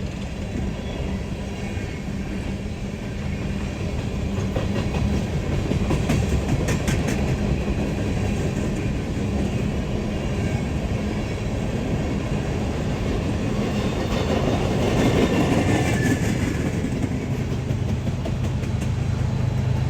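Freight train moving slowly on the rails: diesel locomotive engine running, with wheels clicking over the rail joints. A steadier engine hum comes up near the end.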